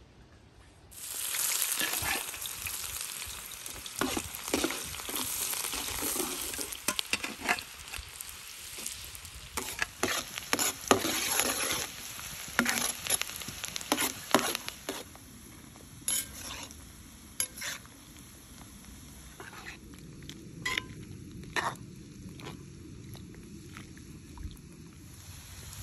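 Food frying in hot fat in a pan. The sizzle starts suddenly about a second in, is loudest at first and eases off, while a utensil stirs and knocks against the pan.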